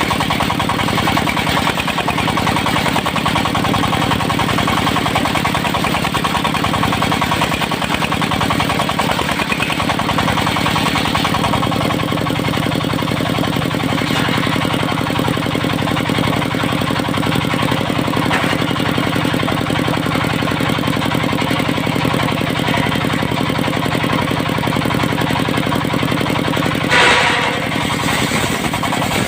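Engine of a mobile circular sawmill running steadily, with a brief louder burst near the end.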